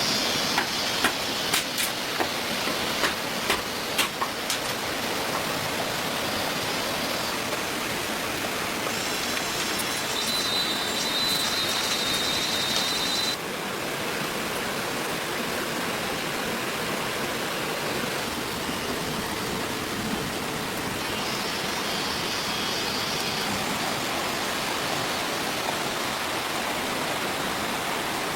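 A steady rushing noise, like running water. In the first five seconds there is a run of sharp clicks or knocks. A high steady whine enters about nine seconds in and cuts off abruptly about thirteen seconds in, and a fainter one comes near the end.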